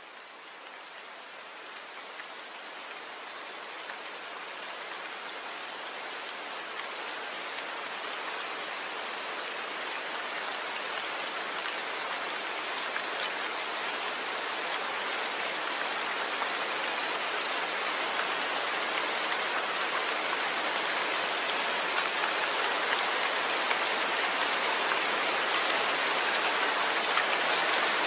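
Steady rain falling with dense pattering drops and no thunder, fading in gradually and growing louder.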